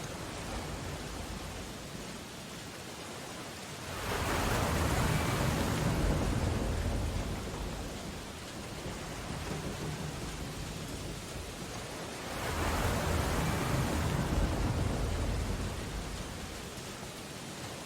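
Storm ambience: steady rain on window glass, with two heavy ocean waves breaking, each coming in suddenly and dying away over several seconds, about eight seconds apart.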